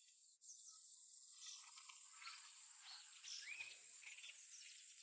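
Near silence: faint outdoor background hiss with a few faint, short high chirps, one a quick rising note about three seconds in.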